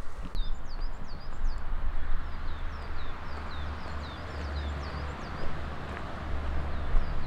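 A songbird singing a quick, continuous run of short, high, falling notes over the steady hum of distant car traffic on the road below, which swells in the middle. A low rumble runs underneath.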